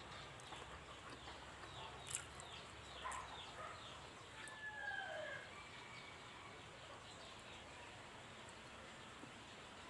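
Faint birds chirping: a quick run of short falling chirps, then a few longer gliding calls, with a couple of soft clicks in between.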